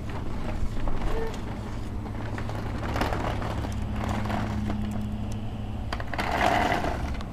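A child's ride-on toy Jeep driving: a steady motor hum, with small clicks and crackles from its plastic wheels rolling over the ground.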